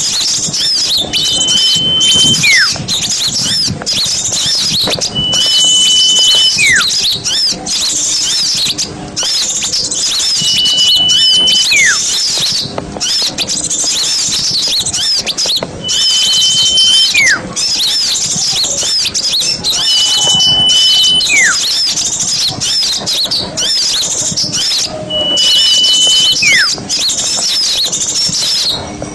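A dense chorus of many small birds chattering and twittering at high pitch, looped as a bird-lure recording. About every five seconds a clear whistle repeats: a short steady high note followed by a note sliding sharply downward.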